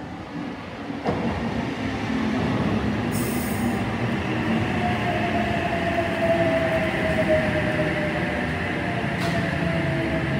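Double-deck electric passenger train (an OSCAR H-set) rolling past along the platform, its wheels and running gear making a steady heavy rumble. A thin whine sets in about five seconds in and slowly falls in pitch as it runs. There is a sharp click about a second in and another near the end.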